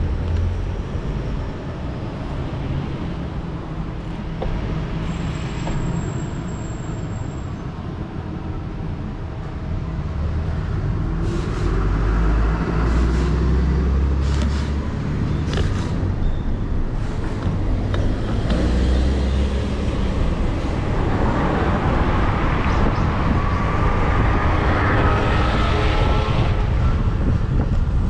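City road traffic, with cars and other vehicles passing over a steady low rumble. A faint rising whine comes in the last several seconds.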